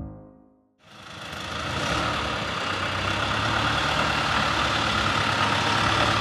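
Pickup truck engine idling steadily, starting abruptly about a second in after a piano tune fades out.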